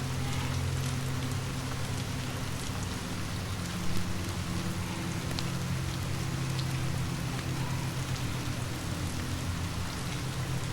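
Steady rain falling, mixed with a fireplace crackling in scattered sharp ticks over a low, steady rumble; one louder pop about four seconds in.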